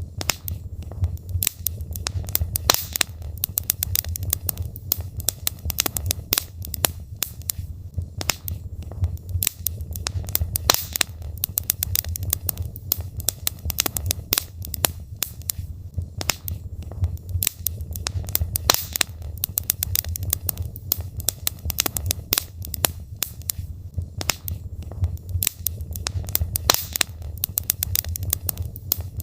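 Logs burning in a fireplace, crackling with many irregular sharp pops over a steady low rumble.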